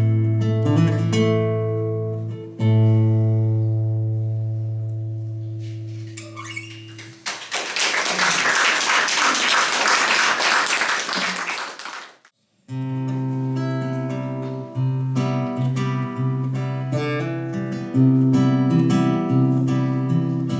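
Acoustic guitar closing chords ringing out, then audience applause for about five seconds. After a sudden brief silence, the guitar starts strumming chords again, a new song's introduction.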